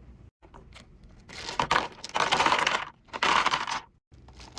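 Unboxing packaging being handled, rustling, crinkling and tearing in several bursts of about a second each, with small sharp clicks between them.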